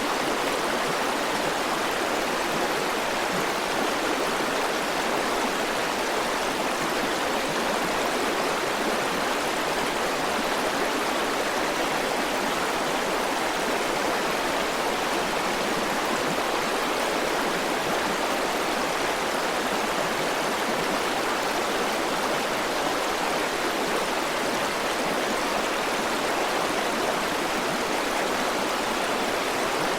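River water flowing and rushing steadily, an even, unbroken rush of water with no separate splashes or changes.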